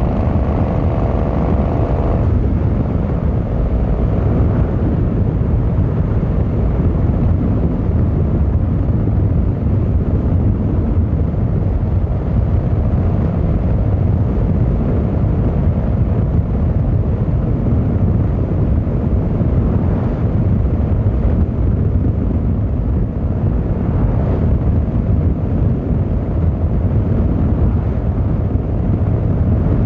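Yamaha XVZ1300 Royal Star's V4 engine pulling in gear. Its pitch rises for the first two seconds and then breaks off, as at a gear change or closing the throttle. After that it settles into a steady, low cruising rumble mixed with road noise.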